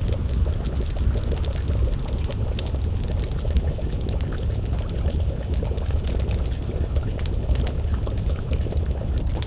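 Wood fire crackling, with scattered sharp pops and snaps over a steady low rumble, and a pot of stew bubbling at a simmer.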